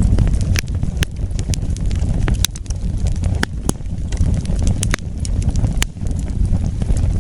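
Wood fire burning with a steady low rumble and scattered sharp crackles and pops at irregular intervals.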